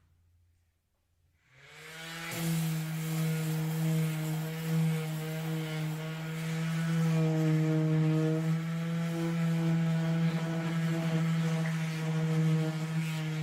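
An electric motor in a power tool spins up about a second and a half in, then runs at a steady pitch.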